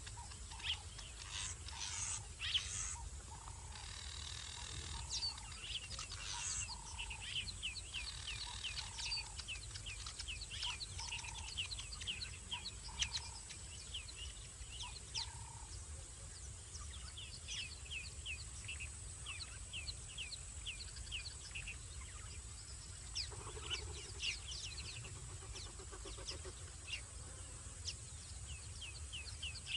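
Wild birds calling in the bush: runs of short, quick, high chirps repeated throughout, over a steady low rumble of outdoor background noise.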